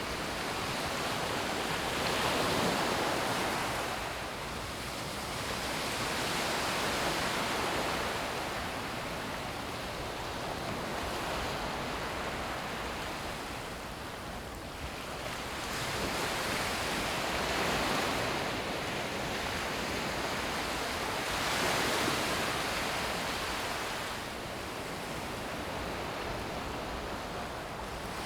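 Sea surf breaking on a sandy beach: a steady wash of waves that swells and fades about every four seconds.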